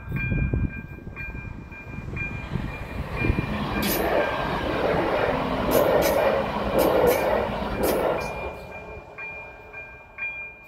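A passenger train passes over a level crossing, rushing loudest about four to eight seconds in, with several sharp wheel clacks over the crossing. Throughout, the crossing's electronic warning bell rings in a steady pulse of about two strokes a second, heard clearly again once the train has passed.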